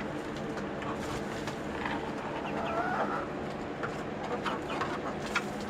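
Young hens in a backyard chicken run, clucking and calling softly in short, scattered calls.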